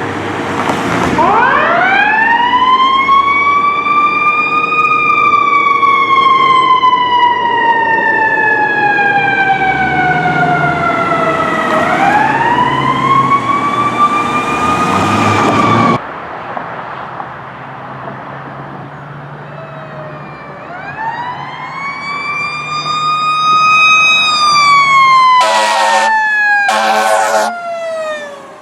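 Fire truck mechanical siren winding up over a few seconds, then slowly coasting down in pitch, then winding up again before it breaks off abruptly. Another fire truck's siren then winds up and falls, with two short air-horn blasts near the end.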